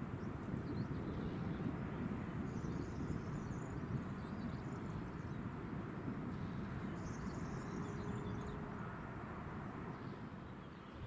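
Outdoor ambience: a steady low rumble, with two brief patches of high bird chirping.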